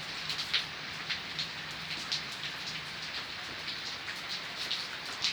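Steady rain falling, with a dense hiss and many distinct drops pattering on a hard surface.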